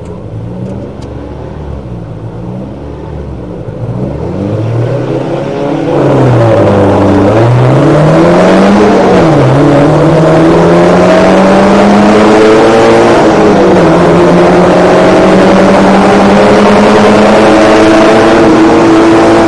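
Mazda MX-5 race car engines revving at a standstill, then from about six seconds in the car's own four-cylinder engine pulls away hard from rest, heard loud from the cockpit. It climbs through the gears, the pitch rising and dropping back at each upshift, until it holds high revs at speed.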